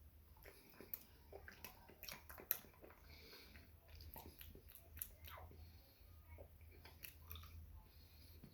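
Faint, irregular crunching and clicking of a person chewing a hard candy, which feels hard and gritty to bite, over a steady low hum.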